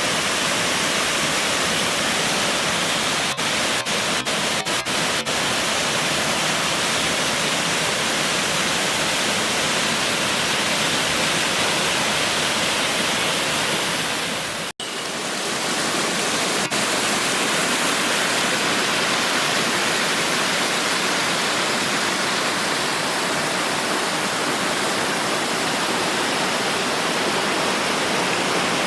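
Steady rushing of the All Saints Waterfalls, mountain stream water cascading down rock steps. The rush drops out for an instant a few times a few seconds in, and once more deeply about halfway through.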